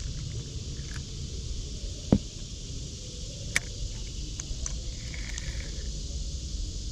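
Wind rumbling on the microphone over a steady outdoor hiss, with a sharp knock about two seconds in and a thinner click about a second and a half later.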